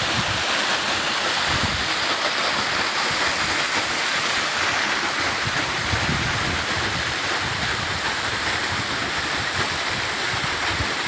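Waterfall about 20 m high, a steady rush of falling water, with wind buffeting the microphone now and then.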